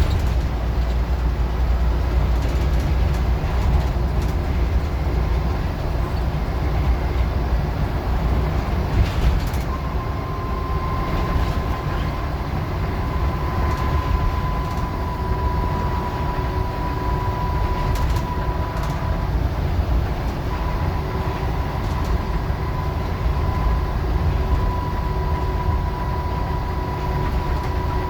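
Scania N94UD OmniDecka double-decker bus under way: a steady deep engine and road rumble, with a thin steady whine joining about ten seconds in.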